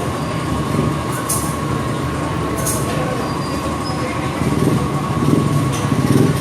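Engine running steadily with an even low pulsing and a constant whine, broken by two short hisses.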